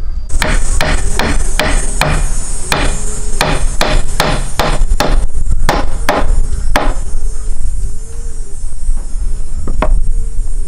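A rapid series of sharp knocks, about three a second, like repeated hammer blows, which stops about two thirds of the way in and gives way to a few scattered knocks, over a steady low rumble.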